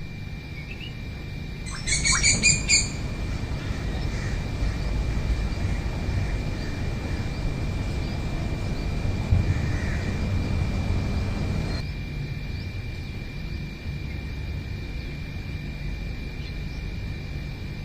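Wild birds calling, with a short burst of loud, rapid call notes about two seconds in. Behind them runs a steady high thin whine and a low rumble.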